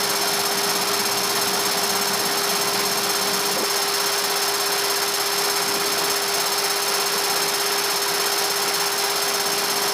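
Steady in-flight noise of a jet aircraft: an even rush of airflow and engines with a steady mid-pitched hum running through it.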